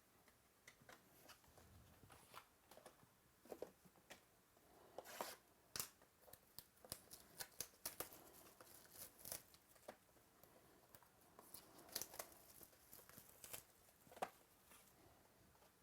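Trading card packs being torn open and the cards handled: a quiet scatter of wrapper crackles, tears and small clicks, with a few louder crinkles about five, twelve and fourteen seconds in.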